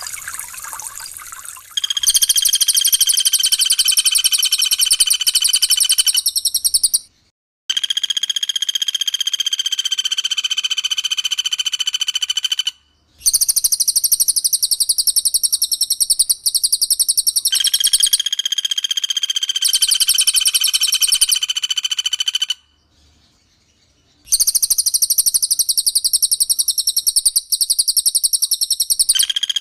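A brief trickle of water, then a recorded bird call of rapid-fire notes, many per second, at a steady high pitch. The calls come in long runs of several seconds that start and cut off abruptly, with short dead-silent gaps between them. This is an edited masteran loop of cililin and pelatuk bawang 'tembakan rapat' calls.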